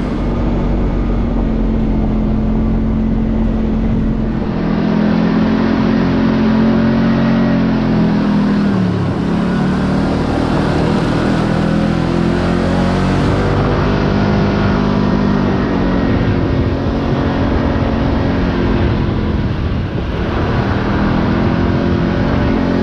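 Side-by-side UTV engine running under way, loud and steady. Its note drops and climbs back about nine seconds in, and again near the twenty-second mark, as the machine slows and picks up speed.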